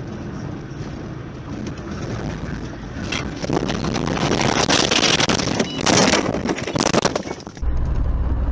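Vehicle running with a steady low rumble, then a loud, rough rushing noise full of crackles for several seconds. It ends abruptly in a steady deep drone from another vehicle.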